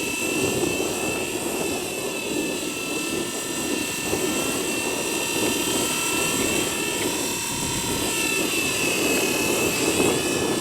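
Blade 230 S V2 electric collective-pitch RC helicopter in flight: a steady whine from the motor and spinning rotor blades, its pitch wavering gently up and down as the head speed shifts.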